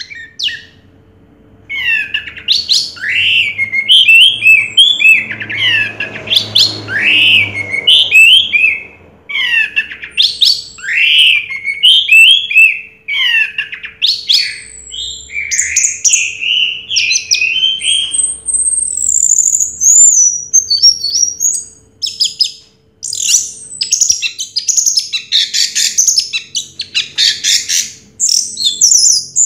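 Orange-headed thrush singing a long, varied warbling song of quick rising and falling whistled phrases, moving to high thin whistles near the middle and a fast, densely packed run of notes toward the end.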